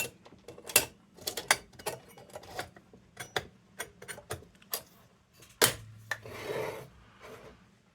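Light metal clicks and taps at irregular intervals as a restored Blue Grass kerosene lantern is handled, its wire bail and tin parts knocking against each other; two louder clicks, about a second in and past the middle.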